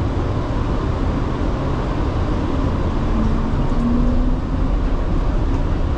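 PHX Sky Train people-mover car running, heard from inside: a steady low rumble, with a faint whine that rises slightly in pitch about three seconds in.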